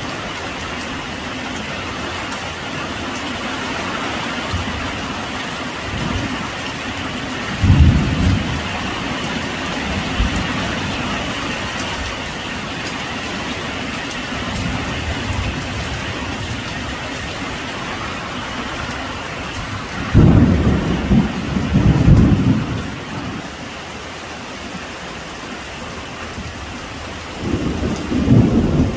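Steady heavy rain with thunder rumbling over it: a low rumble about eight seconds in, a longer, louder one around twenty seconds in, and another near the end.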